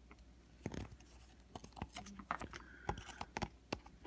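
Cotton swab wet with rubbing alcohol scrubbing the metal battery contacts in a plastic battery compartment: irregular scratching and small clicks, cleaning off tarnish and oxidation.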